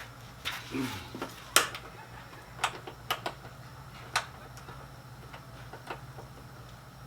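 Sharp clicks and light knocks of hand work on plastic body panels and fasteners, several loud ones in the first half and fainter ones after, over a steady low hum.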